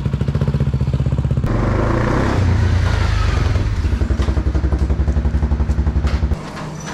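Motorcycle engine running with an even pulsing beat, its note rising and filling out about a second and a half in before settling back. It cuts off suddenly near the end as the engine is switched off.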